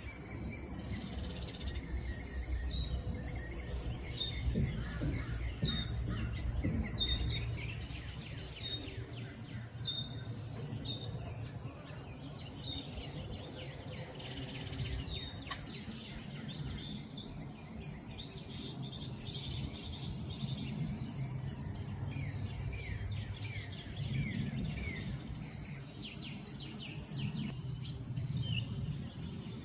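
Wild songbirds calling: a short high chirp repeated about once a second for the first dozen seconds, then several runs of quick falling notes, over a steady low background rumble.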